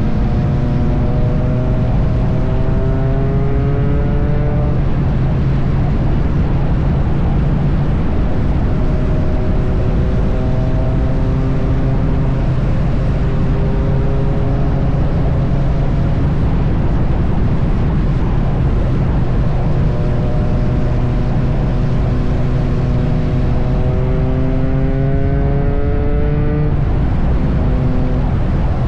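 Triumph Bonneville T100's parallel-twin engine running at highway speed under heavy wind and road noise. The engine note rises slowly a few seconds in and again near the end.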